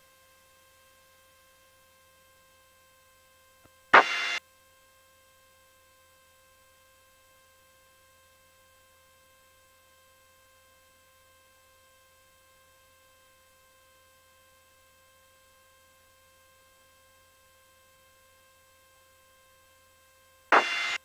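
Faint steady electrical hum, an even whine holding one pitch, in the aircraft's radio and intercom audio. A brief loud burst of radio noise breaks in about four seconds in, and another near the end as a transmission opens.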